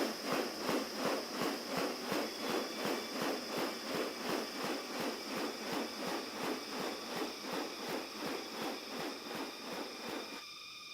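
Amazon rainforest wildlife sound: a rasping pulse repeating evenly about two and a half times a second over a steady high whine, cutting off abruptly near the end.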